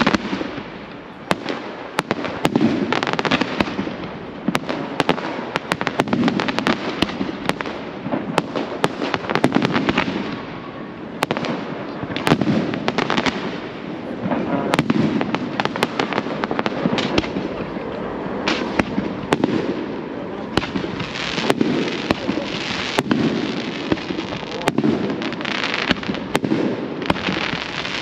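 Fireworks display: a dense string of sharp bangs and crackling, with heavier booms every second or two.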